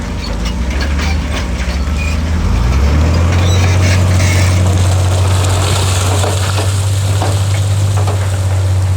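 Diesel engine of a heavy earthmoving machine running, its pitch rising about two to three seconds in and then holding steady and louder under load, with scattered knocks over it.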